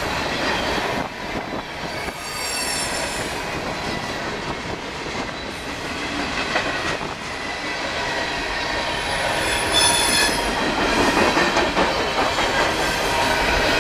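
Freight cars of a CSX train rolling past on the rails in a steady rumble and clatter, with high-pitched wheel squeals rising over it about two seconds in and again around ten seconds in.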